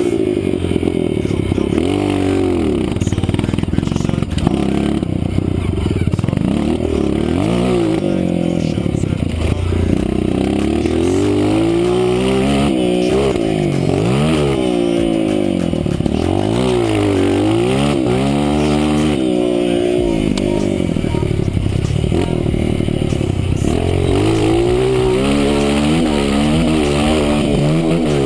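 Honda CRF230 trail bike's air-cooled four-stroke single-cylinder engine being ridden hard, its pitch climbing and dropping again and again as the throttle is opened and shut and it shifts through the gears.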